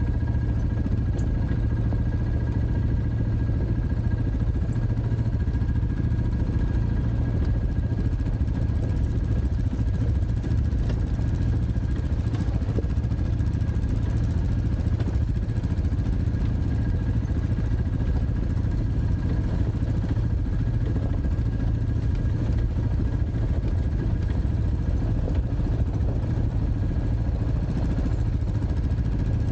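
Dirt bike engine running steadily at an even pitch, with a thin steady whine above it.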